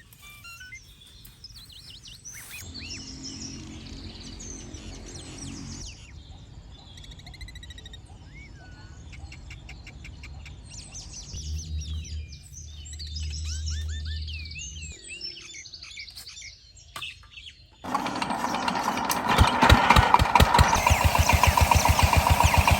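Birds chirping and calling, broken by a few abrupt cuts. About two-thirds of the way through, a small engine starts up loud and runs with a rapid, even pulsing.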